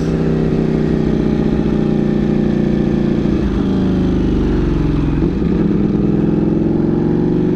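Ducati Panigale V4 V4 engine running through a Competition Werkes GP race exhaust while riding, loud and steady; its pitch dips slightly a little past halfway and climbs again near the end.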